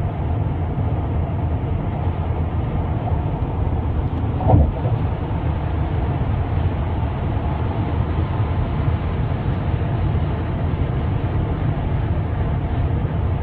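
Steady road and engine rumble heard inside a moving car, with one brief thump about four and a half seconds in.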